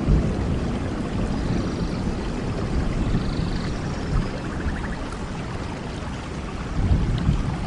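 Steady rain falling with a deep low rumble, and a few faint high chirps over it.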